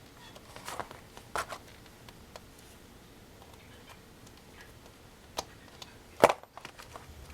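Clicks and taps of small plastic headphone parts being handled and refitted by hand, a few scattered ones with the loudest about six seconds in.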